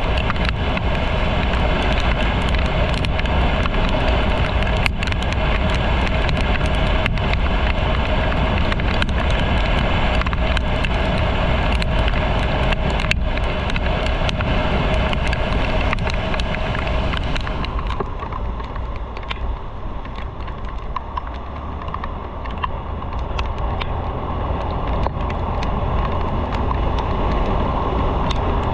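Motorcycle under way on the road: wind rushing over the microphone with the engine running steadily underneath. About eighteen seconds in, the high hiss drops away and the sound gets a little quieter for a few seconds.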